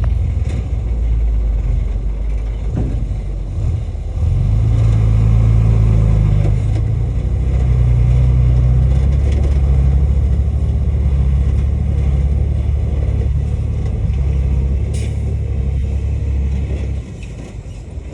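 Heavy diesel engine of earthmoving machinery running hard with a loud, low rumble. It grows louder about four seconds in and drops away suddenly near the end.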